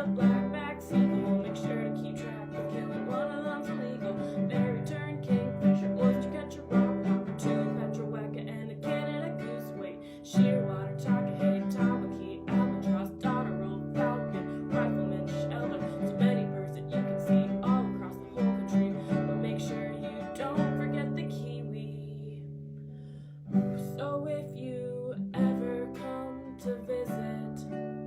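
Acoustic guitar music, strummed and plucked, playing steadily with a regular beat and a brief thinning around the two-thirds mark.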